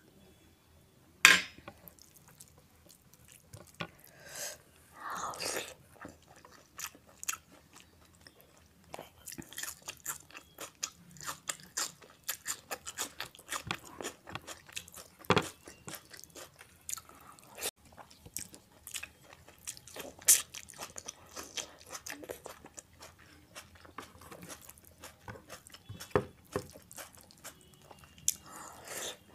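Close-miked chewing and biting of rice and mutton keema eaten by hand: a dense run of small wet mouth clicks and crunches. A single sharp clink about a second in, from a spoon against a glass bowl.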